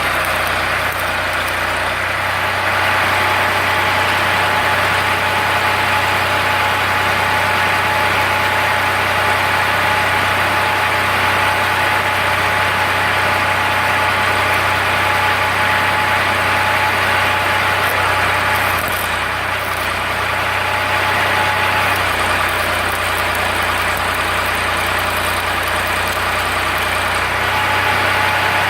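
Ford 3600 tractor engine running steadily while driving a generator. A high steady whine runs over it, breaks off about two-thirds of the way through and comes back near the end.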